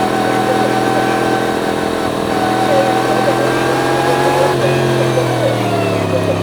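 Yamaha MT-10's crossplane inline-four engine running under way at a steady, moderate pace. Its note eases slightly and changes about a second and a half in and again about four and a half seconds in.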